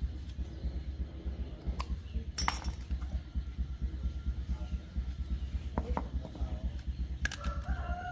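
Small motorcycle engine idling with a steady, fast low throb. A bright metallic clink of a tool sounds a little over two seconds in, with a few lighter clicks around it.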